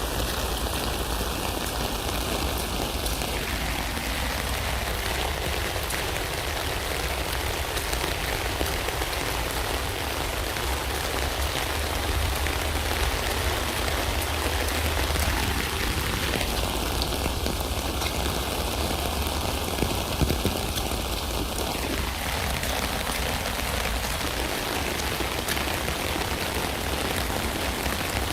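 Steady rain falling on a tent: an even hiss of many drops, with a couple of sharper drop hits about two-thirds of the way through.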